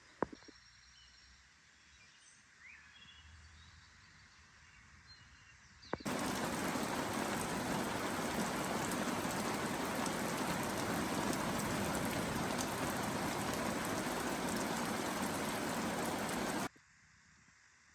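Faint outdoor ambience with a few bird chirps. About six seconds in, a loud, steady rush of water, like rain falling, cuts in suddenly and stops just as suddenly near the end.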